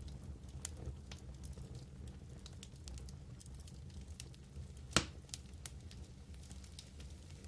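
Wood fire burning in a fireplace: a low steady rumble with scattered crackles, and one loud pop about five seconds in.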